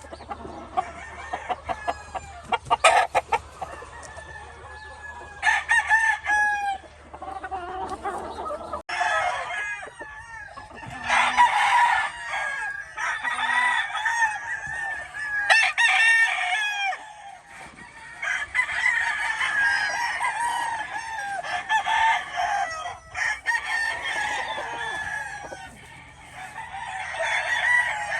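Many gamefowl roosters crowing, their crows overlapping one after another, with chickens clucking. There are a few sharp clicks in the first few seconds.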